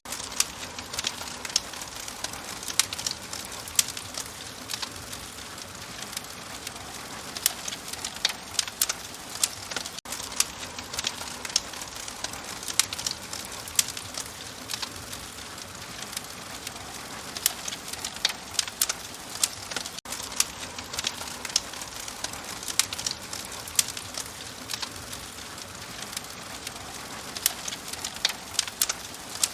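Wood fire in a fireplace, crackling with frequent irregular sharp pops and snaps over a steady soft hiss.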